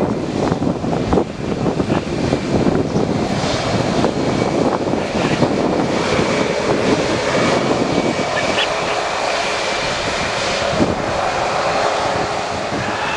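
Jet airliner engines running, a steady rumble and hiss, with a steady whine coming in about two-thirds of the way through.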